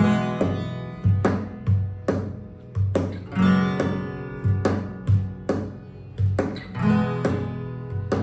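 Guitar music: a guitar plucked and strummed in a steady rhythm, with a low bass note under each stroke.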